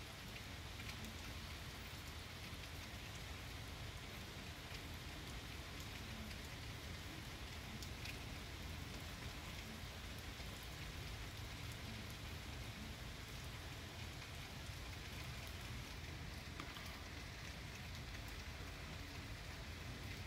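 Heavy rain falling steadily on trees and ground, with a few sharp taps of nearby drops.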